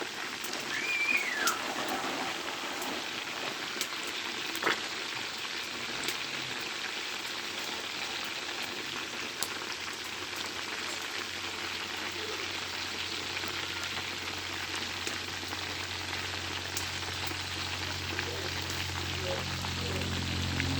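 Chicken frying in a pan: a steady sizzle with scattered sharp pops. A low hum builds near the end.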